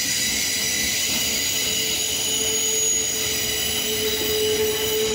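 Loaded freight train flatcars rolling past, with a steady high whine of several stacked tones above a single lower tone, typical of wheel squeal from the passing cars.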